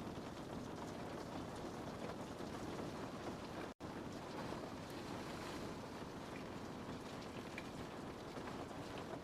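Steady rain pattering on a window pane, a dense hiss with scattered individual drop ticks. The sound cuts out completely for a split second nearly four seconds in.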